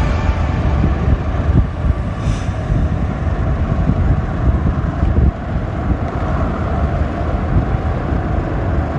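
Yamaha R15 V3 motorcycle on the move: a steady rush of engine and riding noise, heaviest in the low end, with no clear tones.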